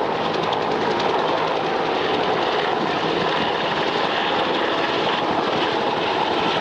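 Aircraft engine noise, a loud steady drone with a faint low hum under it and no clear rise or fall.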